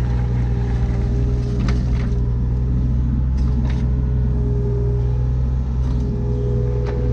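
John Deere 35D mini excavator's diesel engine running steadily under work, with a wavering hydraulic whine and a few light clanks.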